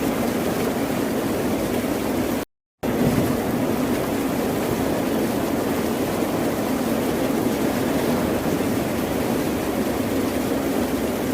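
Steady rush of ocean surf, an even wash of sound with no distinct wave breaks, cut by a brief total dropout to silence about two and a half seconds in, where the recording loops or is spliced.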